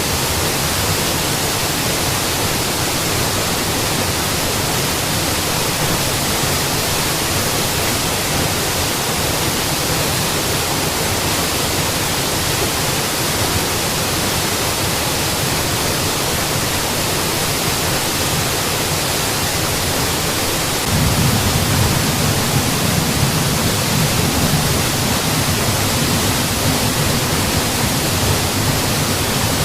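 Mountain waterfall, a steady, dense rush of falling water. About two-thirds of the way through it turns slightly louder and deeper.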